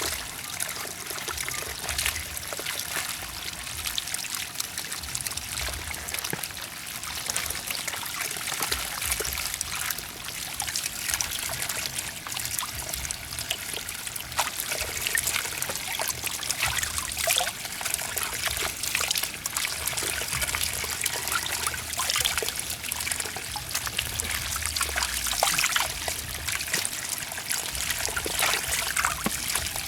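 Water trickling and splashing steadily, with many small spatters throughout.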